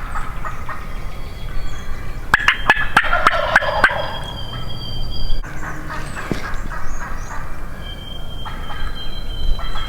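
Wild turkey toms gobbling from the roost: a loud, rattling gobble about two and a half seconds in, then a fainter one around six seconds. Thin, steady whistled notes of other birds sound over them.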